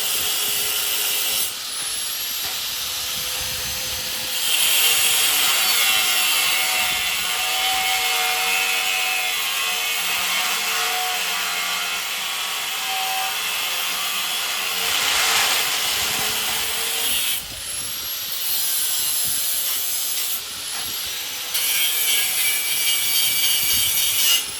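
Angle grinder working on the steel of a barbecue smoker, a steady loud grinding hiss that eases about a second and a half in, swells again about four seconds in, and stops and restarts a few times near the end.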